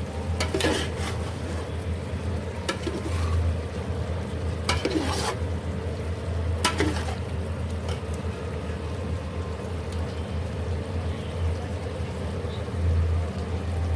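A spoon stirring cauliflower and chicken curry in a cooking pot, scraping against the pot a few times in the first half, over a steady low hum.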